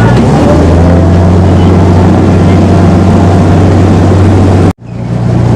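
Engine of a WWII DUKW amphibious truck running steadily under way, a loud low drone. Near the end the sound cuts out abruptly for a moment, then the engine comes back at a slightly higher pitch.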